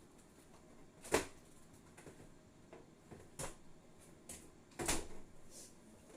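Eating sounds: a handful of short, sharp clicks and taps, such as cutlery against a plate. The loudest comes about a second in and another near five seconds.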